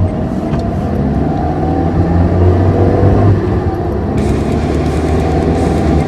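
A motor vehicle engine running steadily, its pitch rising slowly. About four seconds in, a hiss-like noise joins it.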